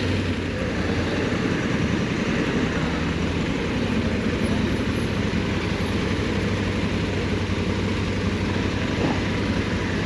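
Honda Africa Twin 1100's parallel-twin engine running steadily at low revs, heard from the bike itself.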